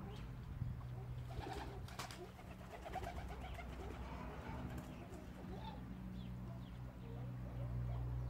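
Birds in an aviary calling, short scattered calls throughout with a few sharp clicks about one and a half to two seconds in, over a steady low hum.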